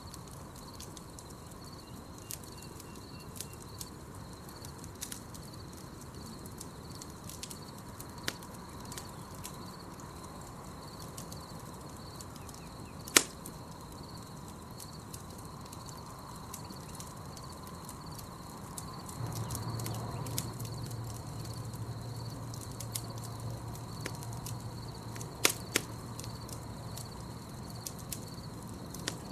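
Campfire crackling with scattered sharp pops, one loud pop about halfway through and two more near the end, over the steady even chirping of night insects. A low steady hum joins about two-thirds of the way in.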